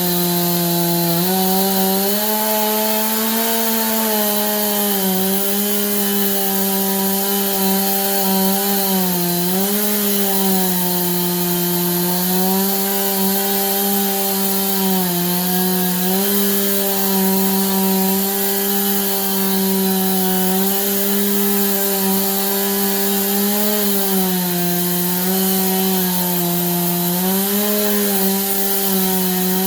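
Stihl chainsaw on an Alaskan chainsaw mill ripping lengthwise through a pine log, the two-stroke engine running flat out under load. Its pitch sags briefly every few seconds as it bogs in the cut and then recovers.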